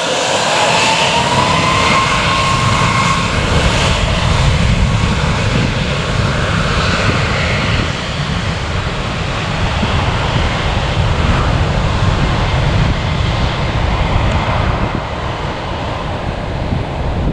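Departing airliner's engines at takeoff power: a loud, steady rumble with a whine that rises in pitch over the first couple of seconds and then holds.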